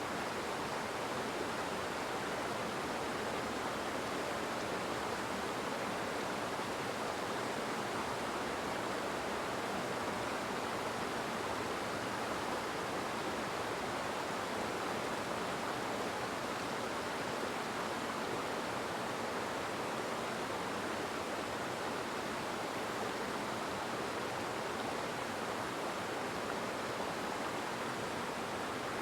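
Steady, even rushing noise with no pitch and no change in level, of the kind running water makes.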